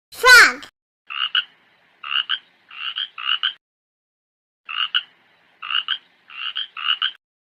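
Frog croaking: two runs of four short, double-pulsed croaks, with a pause of about a second between the runs.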